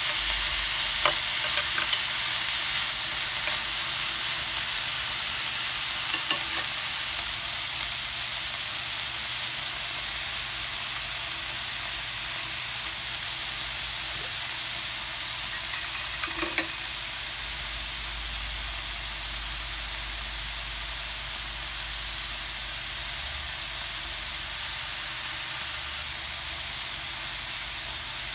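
Chicken pieces and vegetables sizzling in a hot pan, a steady frying hiss that eases slightly over time. A few sharp clicks of tongs against the pan come in the first few seconds and once a little past halfway.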